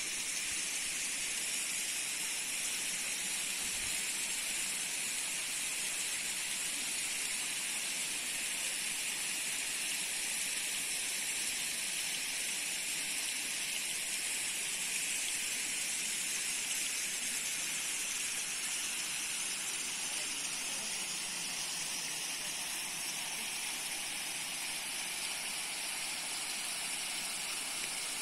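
A steady, high-pitched hiss that holds unchanged throughout, with almost nothing in the low end.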